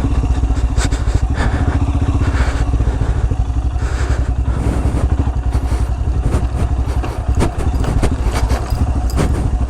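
Royal Enfield Himalayan's single-cylinder engine running as the bike rides over rough, muddy ground, with frequent short knocks and clatter throughout.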